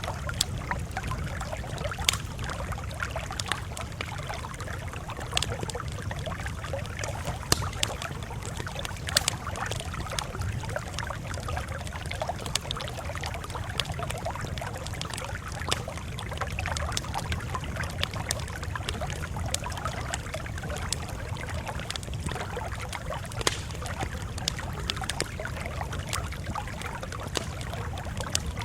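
Campfire crackling: irregular sharp pops and snaps over a steady low background rush.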